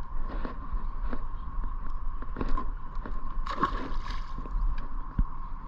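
Irregular knocks, clicks and scrapes of handling aboard a plastic fishing kayak, over a low steady rumble and a faint steady high tone.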